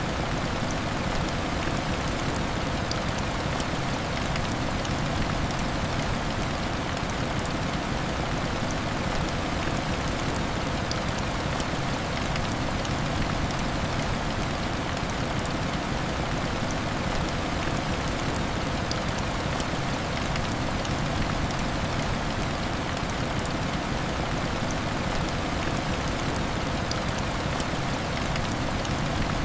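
Heavy rain falling steadily against window glass: a dense, even hiss with fine scattered ticks of drops.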